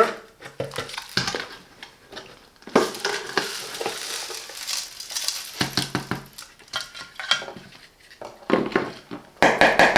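Hard plastic parts of a cordless handheld vacuum's dust container and filter clicking and clattering as they are taken apart and handled, with a stretch of rustling in the middle.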